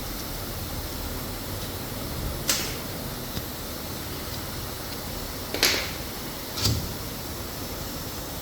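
Steady factory background noise with three short, sharp knocks of handled parts or tools: one about two and a half seconds in, then two about a second apart later on, the last with a dull thud.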